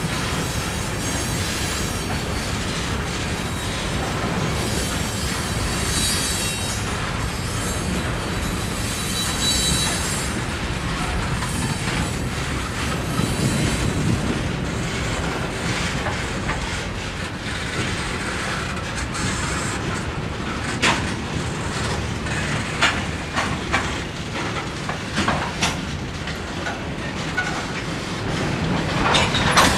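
Freight train of covered hopper cars and tank cars rolling past close by: a steady rumble of steel wheels on rail, with sharp clacks over the rail joints in the second half.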